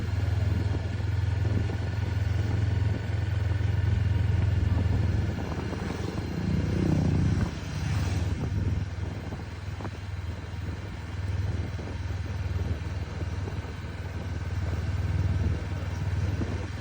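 Honda 500 parallel-twin motorcycle engine running steadily at cruising speed, heard from the rider's seat with road and wind hiss. About seven seconds in there is a brief swell and pitch change. The engine then runs quieter for several seconds and picks up again near the end.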